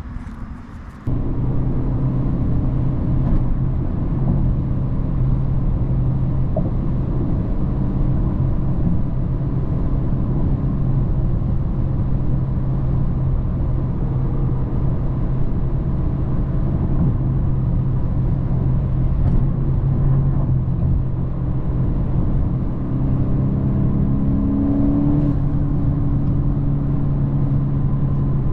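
Car engine running at a steady speed, a continuous drone that cuts in abruptly about a second in; near the end the pitch climbs a little as the engine speeds up.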